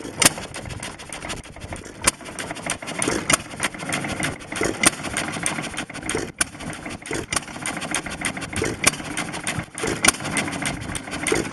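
Baker Monitor hit-and-miss engine running with its pumpjack attached. Sharp firing bangs come at irregular gaps of about one to two seconds over a steady mechanical clatter.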